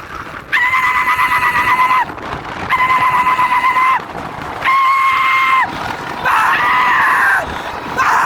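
A man's long, high-pitched shouts, repeated five times, each held for about a second with a steady pitch that drops at the end: shouted urging of a racing animal.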